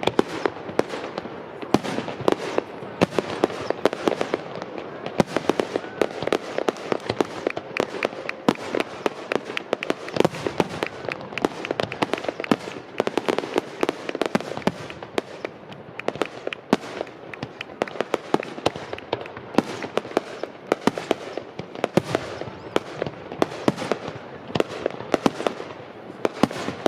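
Fireworks exploding close by in a rapid, continuous barrage: many sharp bangs and crackles a second, a starmine display of shells fired in quick succession.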